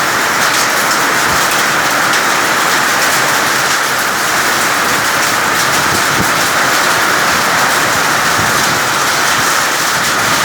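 Heavy summer rain falling in a steady, loud hiss, with scattered individual drop hits.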